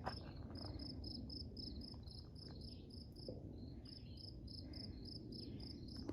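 An insect chirping in a steady, high-pitched rhythm of about three to four pulses a second, with a couple of brief pauses: the summer insect sound of the woods.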